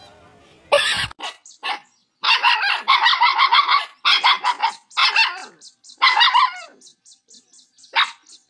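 A pet animal giving rapid, pulsing calls in several short bouts of about seven pulses a second, with a sharp yelp-like onset just before the first bout.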